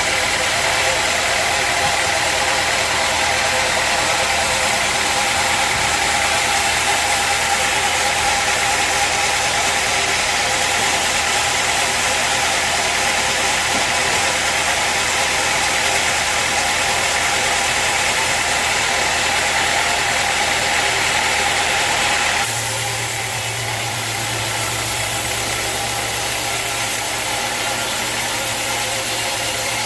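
Sawmill machinery running steadily with a high hiss. About two-thirds of the way in the sound changes suddenly: the hiss drops away and a lower hum takes over.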